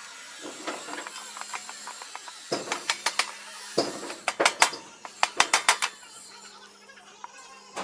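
Quick runs of sharp knocks or taps, several in a row, starting about two and a half seconds in and coming thickest in the middle, over a faint steady hiss.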